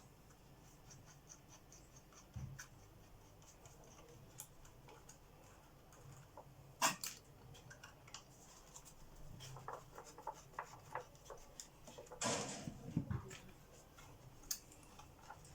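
Faint clicks and light rattling of plastic parts being handled while the mains flex is worked free of an old vacuum cleaner. There is one sharp click about seven seconds in and a brief scraping rustle near the end.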